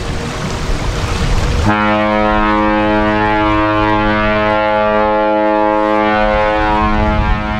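Cruise ship Mein Schiff 7's horn sounding one long, steady blast, beginning about two seconds in after a rushing noise, as a departure signal while the ship leaves harbour.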